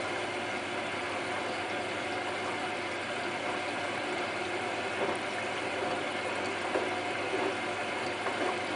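Hotpoint Ultima WT960 washing machine filling with water on its fast wash, a steady rushing noise with a few light clicks.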